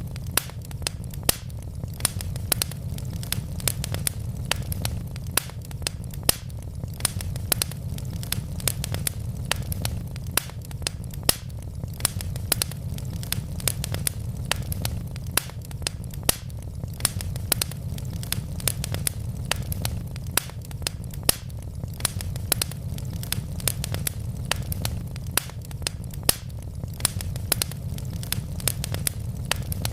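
Wood logs burning in a fireplace, crackling with frequent sharp pops over a steady low rumble of the flames.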